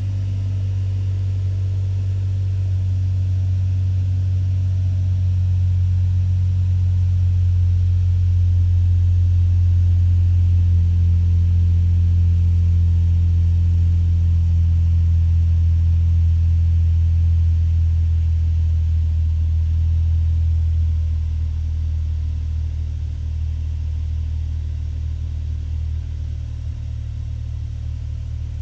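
Suzuki Jimny JB64's 660 cc turbocharged three-cylinder engine idling steadily after a cold start, heard from inside the cabin while it warms up, with coolant still at 30 to 40 °C. The hum gets a little quieter about two-thirds of the way in.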